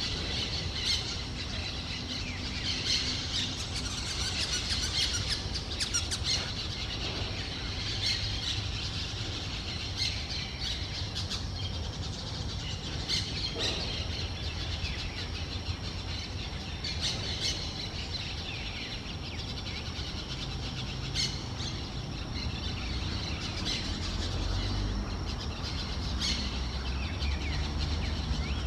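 Wild parrots calling: many short, harsh squawks and chirps, scattered irregularly, over a low rumble that grows louder near the end.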